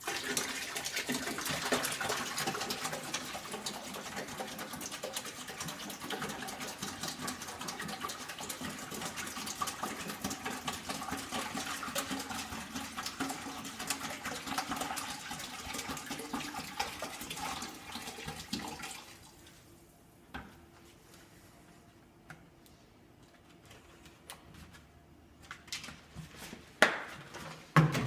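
White vinegar being poured from a jug into a bucket, a steady splashing pour that stops about 19 seconds in; a few knocks follow near the end.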